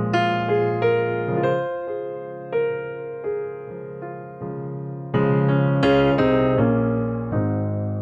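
Slow, gentle piano music: single notes and chords struck and left to ring out, with a louder chord about five seconds in.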